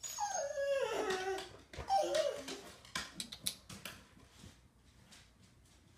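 A dog whining: one long falling whine, then a few short whimpers about two seconds in, followed by a run of light clicks.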